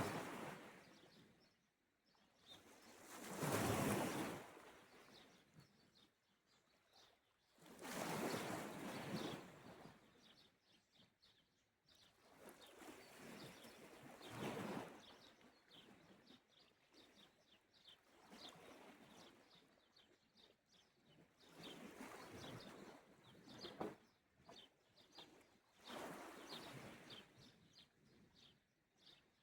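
Small sea waves washing onto the shore, a swell of surf every four to six seconds, the first few the loudest, with faint bird chirps.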